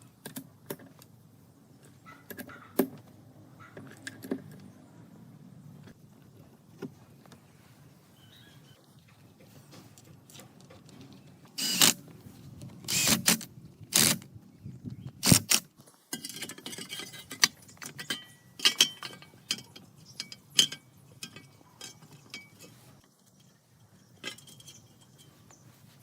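Small metal parts and hand tools clinking and rattling during workshop work, with scattered clicks and a few louder short bursts near the middle.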